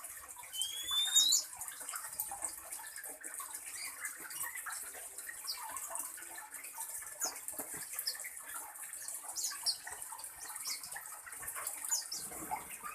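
Small birds chirping and calling in short high notes over a steady high hiss, with one rising whistled note about a second in.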